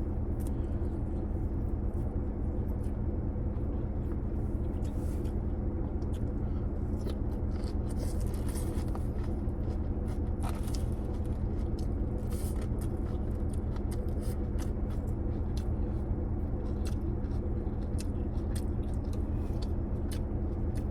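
A steady low hum with scattered small clicks and scrapes of someone eating takeout food.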